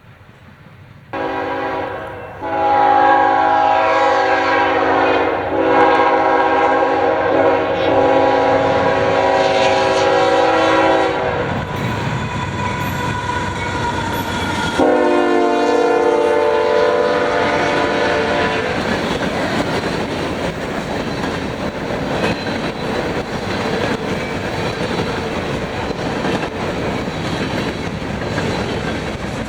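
Freight locomotive air horn sounding a long chord blast starting about a second in, then a second blast about three seconds after it ends, over the steady rumble and clatter of a freight train rolling past on the rails.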